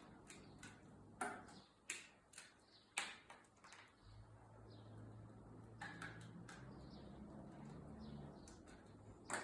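Wire strippers clicking and snipping as insulation is stripped from the ends of electrical wires: a scattering of faint, sharp clicks, with a faint low hum starting about four seconds in.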